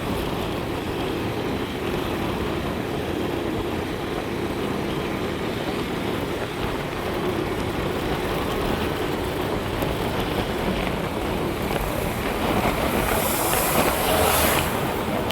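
Steady rumble and hiss of a moving vehicle, with a rush of wind-like hiss near the end.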